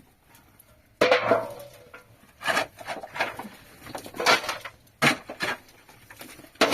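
Clatter of household items being handled: about six sharp knocks and clinks at uneven spacing, the loudest about a second in with a brief ring.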